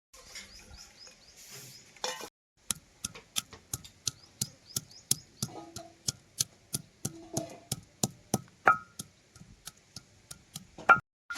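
Knife chopping on a cutting board in a steady rhythm of about three to four strokes a second, starting about three seconds in. A short high chirp sounds about nine seconds in.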